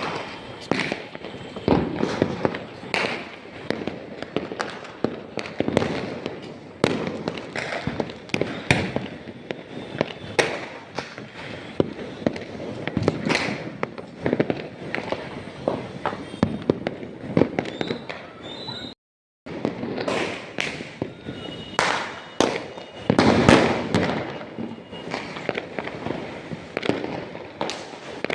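Fireworks and firecrackers going off in dense, irregular succession: frequent sharp bangs over a continuous crackle. The sound cuts out for a moment about two-thirds of the way through.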